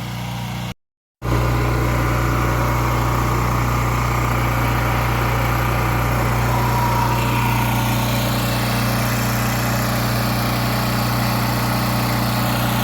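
Gas-engine pressure washer running steadily, its engine hum under a constant hiss of spray. The sound cuts out completely for about half a second near the start, then resumes unchanged.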